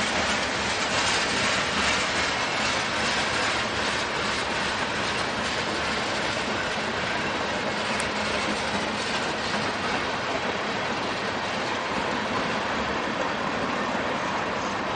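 Freight train rolling past close by, steel wheels clicking over rail joints, over the steady drone of the coal train's EMD 16-645F3B-powered MK50-3 and SD50 diesel locomotives working hard upgrade.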